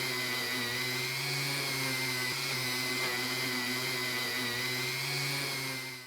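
Electric power tool, such as a rotary tool or polisher of the kind used for rust removal, running at a steady speed with a constant whine and hiss, cutting off abruptly at the end.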